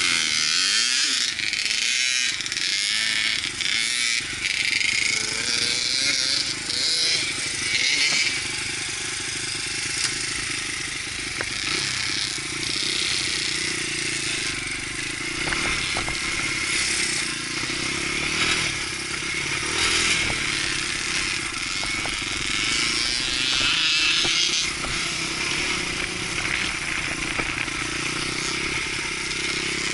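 Dirt bike engine running, over a steady hiss.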